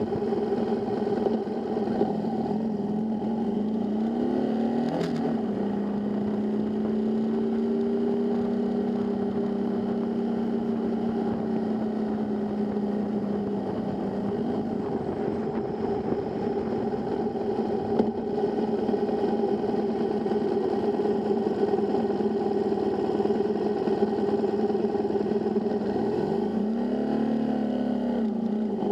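Motorcycle engine running steadily at road speed. Its pitch rises and falls briefly about five seconds in and again near the end, as the revs change.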